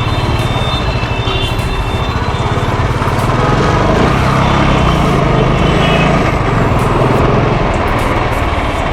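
Royal Enfield Classic 350's single-cylinder engine running while riding through city traffic, getting a little louder and higher around the middle as it pulls, with road and wind noise.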